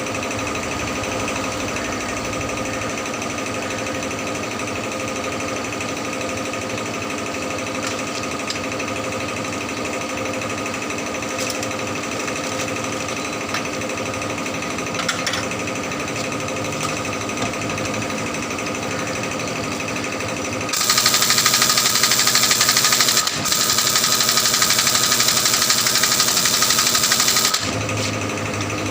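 Tyre-shop machinery running steadily with a rapid mechanical rattle and a steady hum. About two-thirds of the way in a loud hiss of air starts, breaks off for an instant, then runs on for about six seconds before stopping.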